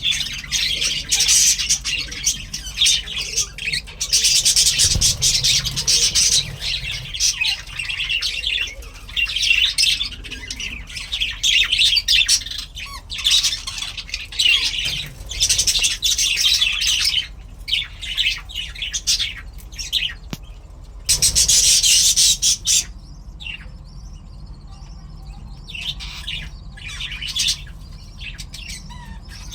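A colony of budgerigars chattering and squawking in dense, high-pitched bursts, easing off to fainter chirps for a few seconds in the last part.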